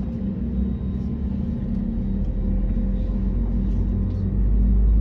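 Airliner cabin noise on the ground: a steady low rumble with a hum, growing louder and deeper about four seconds in.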